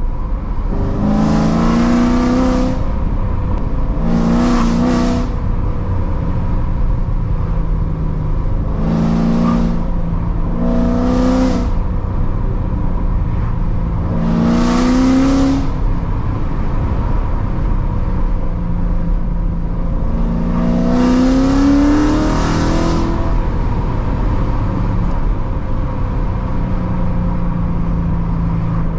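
Straight-piped, supercharged 6.2 L LT4 V8 of a 2016 C7 Corvette Z06 with long tube headers and an X-pipe, droning steadily while driving. It picks up six short bursts of throttle, each rising in pitch with a loud raspy exhaust, then drops back to the low drone.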